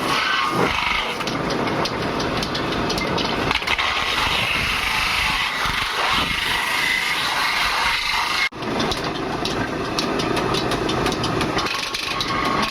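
Metal workshop noise: a machine running, with many quick knocks and clatters over it, breaking off abruptly for a moment about eight and a half seconds in before starting again.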